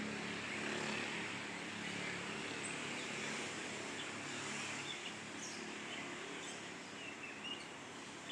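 A songbird of unknown species giving short, high chirps, several in the second half, over a steady outdoor background hum.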